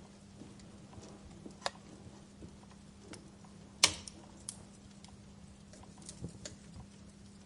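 Wood fire burning in a fireplace, crackling with scattered small pops and one sharp, loud pop near the middle.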